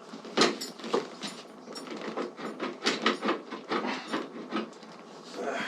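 An irregular series of short clicks and knocks from hands handling and fitting saddlebag mounting hardware: brackets, spacers and bolts. The clicks come quicker, about three or four a second, in the middle of the stretch.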